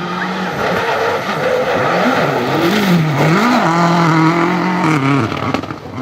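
Rally car engine running hard, its revs swinging up and down several times, then holding steady before falling off near the end, with tyre noise underneath.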